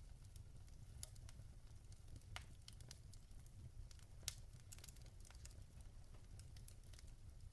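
Logs burning in a fireplace, crackling: scattered soft pops over a low steady rumble, the sharpest pop about four seconds in.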